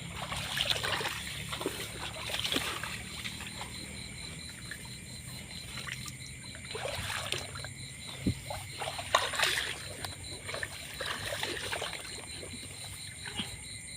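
Water trickling and splashing in short, irregular bursts, with a louder splash about nine seconds in.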